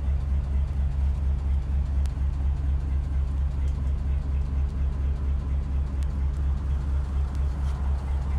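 Ford 8BA flathead V-8 idling steadily through tubular headers and a full-length dual exhaust, with an even low pulsing.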